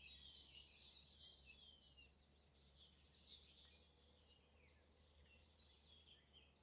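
Faint songbirds singing, a dense run of quick twittering and chirping notes, over a low steady hum.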